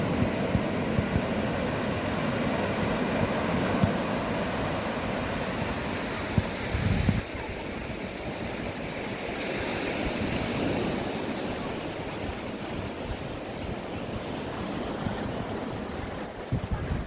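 A steady outdoor rushing noise with wind buffeting the microphone in low thuds. The level drops a little about seven seconds in.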